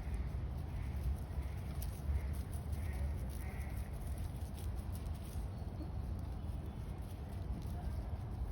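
Animal calls: several short calls about a second apart in the first half, over a steady low rumble.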